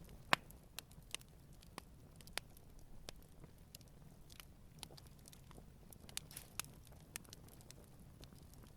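Wood campfire burning quietly, with irregular sharp crackles and pops over a low, steady hiss of the flames; the loudest pop comes about a third of a second in.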